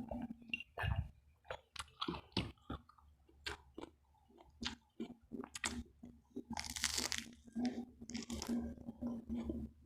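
Close-miked mouth chewing and crunching of crispy fried pork belly (lechon kawali), a quick run of sharp crackling crunches followed by two longer, harsher crunching bites near the end.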